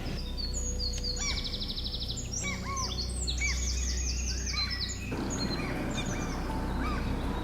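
Several birds chirping and calling over one another, with high arched and falling notes. A fast trill comes about a second in, then a quick row of repeated whistled notes. A steady low hum runs underneath.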